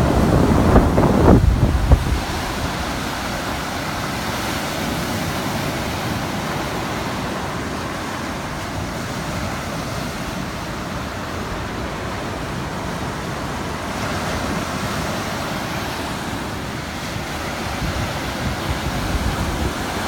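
Ocean surf washing steadily onto a beach, with wind buffeting the microphone in low rumbling gusts for the first two seconds or so.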